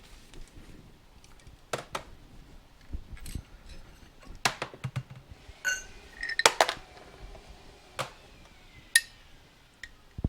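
Small metal parts and tools being handled on a workbench: irregular clinks and taps, a few ringing briefly like struck steel, the loudest cluster a little past halfway.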